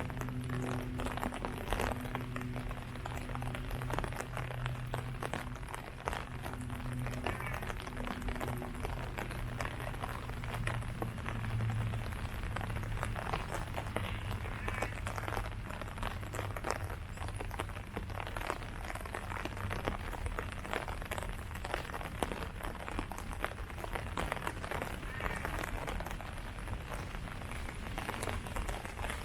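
Steady rain falling on leaves: a dense patter of countless drops. A low steady hum lies underneath at first and fades away about halfway through.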